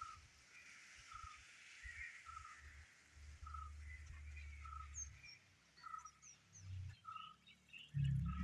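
Small birds calling: a short note repeats about every second, and quick high chirps come in after about five seconds.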